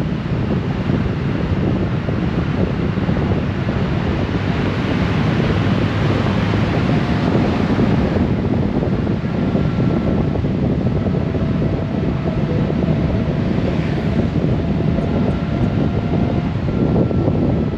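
Wind buffeting the microphone over the steady drone of a Honda Gold Wing motorcycle at riding speed, mixed with road noise. A faint high whine comes in about halfway through and holds.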